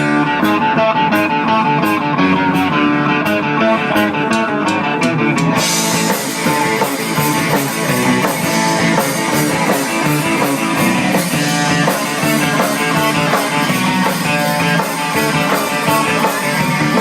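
Live rock band playing an instrumental stretch of a song: guitar first, with the drum kit and cymbals coming in about six seconds in.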